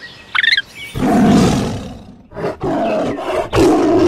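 Tiger growling: a long low growl starting about a second in, then several shorter ones with brief breaks. A brief high chirp sounds just before the first growl.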